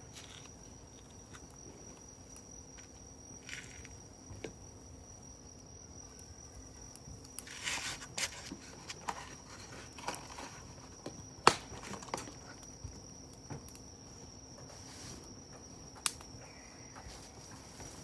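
Wood campfire crackling, with scattered sharp pops, the loudest about eleven and a half and sixteen seconds in. Under it runs a steady high-pitched insect trill.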